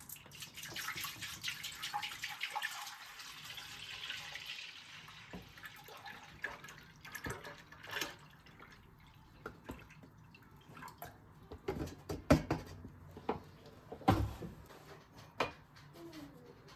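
Kitchen tap running at a sink for the first few seconds, then dripping water and scattered knocks of things being handled, with two louder knocks near the end.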